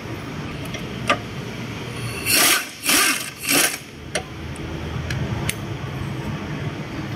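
A 15 mm socket tool working the engine mount bolts: a click just after a second, then three short noisy bursts in quick succession.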